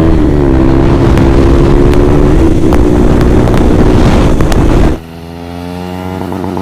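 KTM Duke 390 single-cylinder engine breathing through a replica SC Project slip-on exhaust, running loud and steady while the bike is ridden, with wind on the microphone. About five seconds in it cuts off suddenly and a quieter sound of several steady tones takes over.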